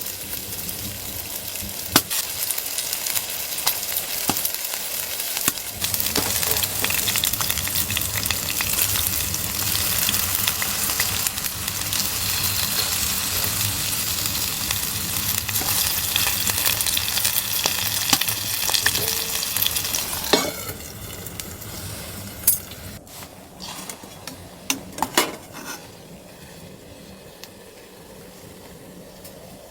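Food sizzling and frying in a hot pan, with a steady hiss full of small crackles. About twenty seconds in the sizzle drops away suddenly, leaving a quieter background with a few light clicks and knocks.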